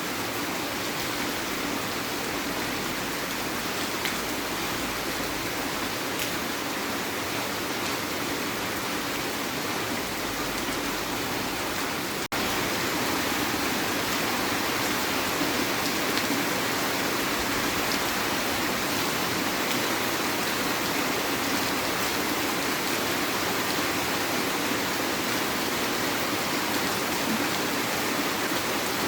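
Heavy rain falling, a steady hiss. About twelve seconds in it drops out for an instant, then carries on slightly louder.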